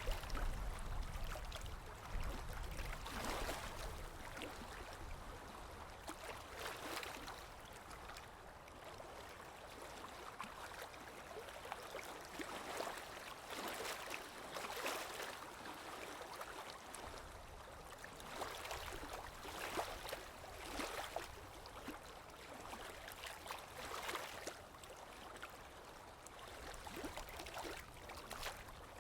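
Small waves washing in and lapping, a fresh wash swelling up every few seconds. A low rumble sits under them for the first few seconds.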